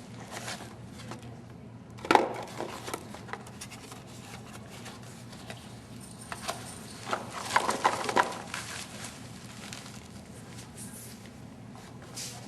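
Hard objects knocking and clattering: one sharp knock about two seconds in, a few lighter ticks after it, and a busy run of clattering knocks around seven to eight seconds in, over a faint steady hum.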